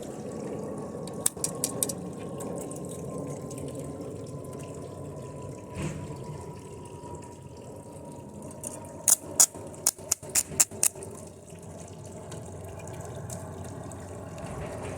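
Steady sizzling hiss of circuit board components burning under high current from a lead-acid battery, with a faint whine slowly falling in pitch. Sharp snaps cut through, a few about a second in and a burst of them about nine to eleven seconds in.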